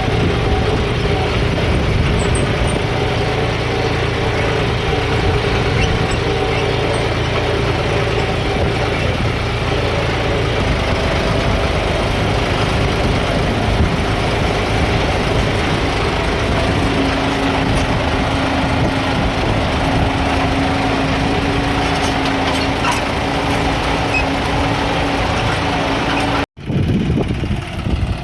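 John Deere 5310 tractor's diesel engine running steadily. Near the end it cuts out suddenly for a moment, then comes back quieter.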